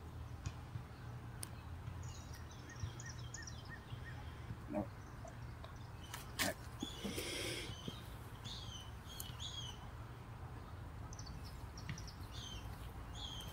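Faint small-bird chirps, coming in short groups of repeated notes over a steady low outdoor rumble. A few sharp clicks and a brief noisy burst break in about halfway through.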